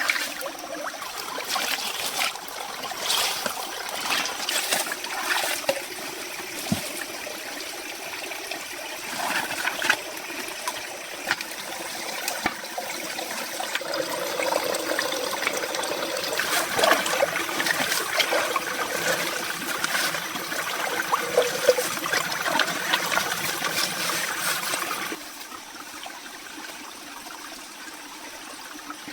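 Water trickling and splashing, with scattered clicks and knocks; the sound drops off abruptly about 25 seconds in.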